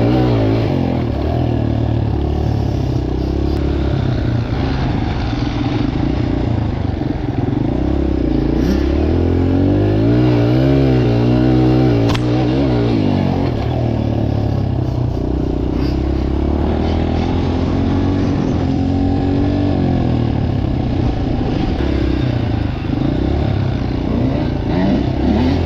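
Dirt bike engines running and revving, their pitch rising and falling as the throttle is worked, with the biggest rev swell about ten seconds in.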